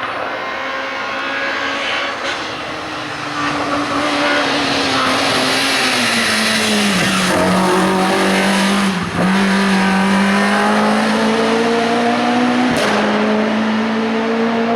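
Hill-climb race car's engine running hard, its note sinking steadily over the first seven seconds and then holding, with a brief dip about nine seconds in and a sudden jump near thirteen seconds, like a gear change.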